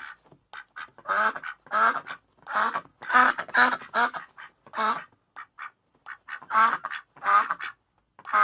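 Duck quacking repeatedly, short nasal quacks in quick runs of two or three, with a brief pause a little past the middle.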